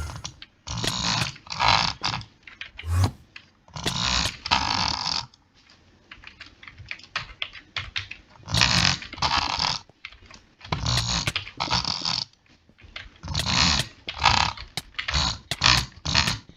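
A person making non-speech mouth noises: rapid clicks and noisy rasping bursts in short, irregular spurts with brief pauses between them.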